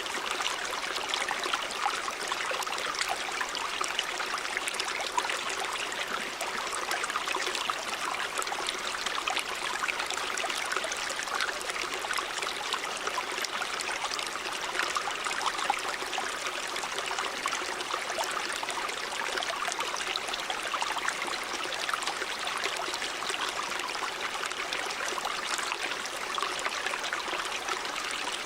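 River water running over rocks: a steady, even rushing with fine splashing and trickling.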